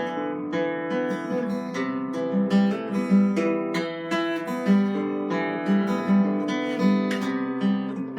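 Solo improvised music on a plucked string instrument: picked and strummed notes over a repeating low bass note.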